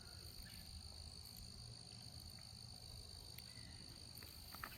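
Near silence outdoors, with a faint, steady high-pitched trill of insects and a few soft ticks.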